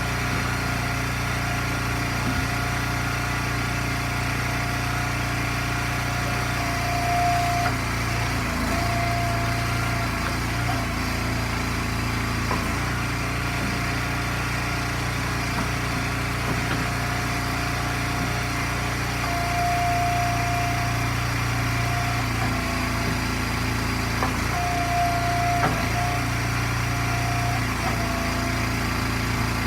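Small gas engine of an Eastonmade hydraulic log splitter running steadily, with a higher whine coming in briefly a few times as it takes load splitting ash rounds.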